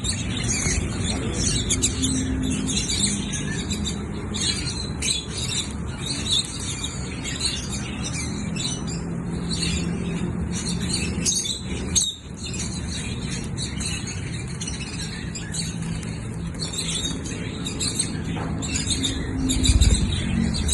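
Lovebird chattering: rapid high-pitched chirps and squeaks, with a brief pause about twelve seconds in, over a steady low hum.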